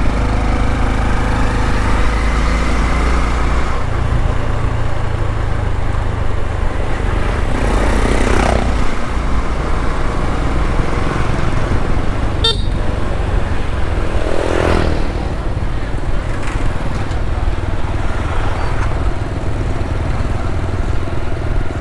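Motorbike engine running while riding through busy road traffic, with wind rumble on the microphone and other vehicles passing; a horn toots briefly.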